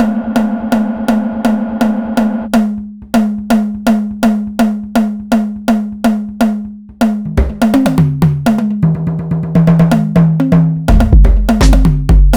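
Electronic drum machine beat: a pitched, cowbell-like percussive hit repeating about three times a second. A stepping bass line joins about seven seconds in, and a deep low bass comes in near the end.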